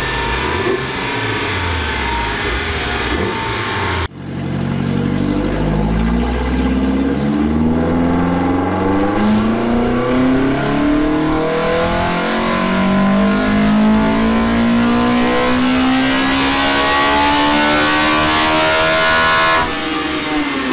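Toyota 4A-GE four-cylinder engine with individual throttle bodies and long intake runners on a chassis dyno: it runs steadily for about four seconds, then after a sudden break makes a full-throttle power pull, its note climbing steadily in pitch for about fifteen seconds before cutting off abruptly near the end.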